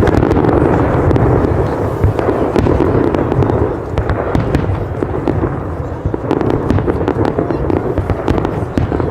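Fireworks going off in a dense, continuous barrage: a steady low rumble of bangs with many small sharp cracks over it.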